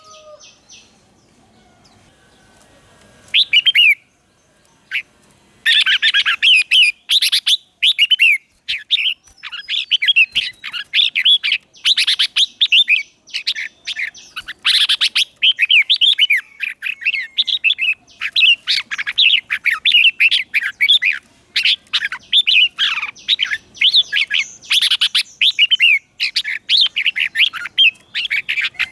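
Red-whiskered bulbul singing. A short phrase comes after a few quiet seconds, then a fast run of bright, warbling notes that keeps going.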